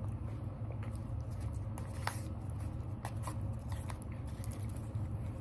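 A person chewing a mouthful of salad close to the microphone, with a few scattered light clicks, over a steady low hum.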